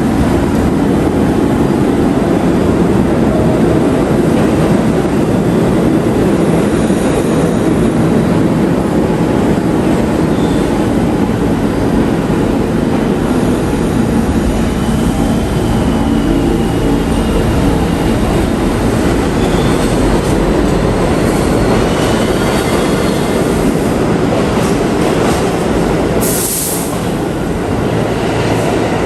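New York City subway train running through the station: a loud, steady rumble of wheels on rail with faint wheel squeals, and a short hiss about 26 seconds in.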